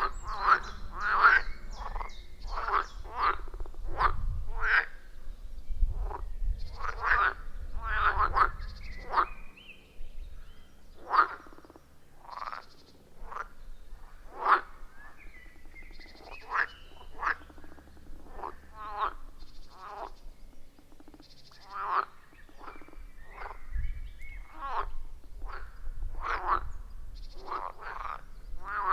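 A chorus of frogs croaking at a pond: many short calls overlapping one another. The chorus is dense at first, thins out through the middle, then builds again near the end.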